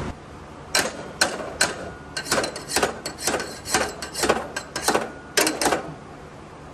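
Metal knocking on the stock exhaust as it is forced loose: about fifteen sharp, irregular blows, roughly two to three a second, some ringing briefly.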